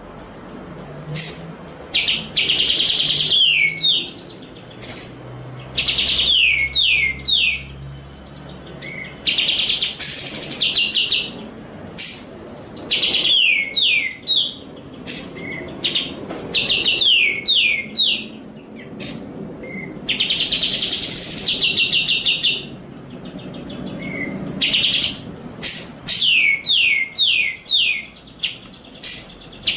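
Songbird song played as a masteran training recording: repeated bursts of rapid high chirps and trills, each series made of quick falling notes, broken by short pauses.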